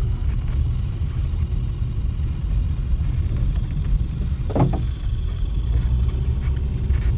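Steady low rumble of a car driving, heard from inside the cabin, with one brief higher-pitched sound about four and a half seconds in.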